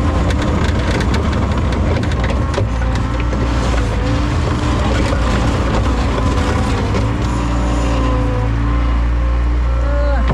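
John Deere 675B skid steer engine running steadily with a constant whine, plus scattered clunks and rattles, most of them in the first few seconds.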